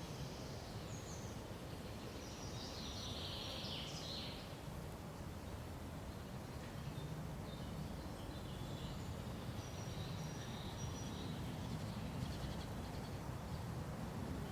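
Small birds chirping and calling off and on, with a busier flurry of calls about three seconds in, over a steady low background rumble.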